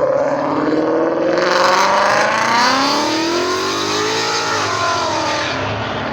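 Car engine revving loudly, its pitch climbing for a couple of seconds, peaking near the middle, then falling back.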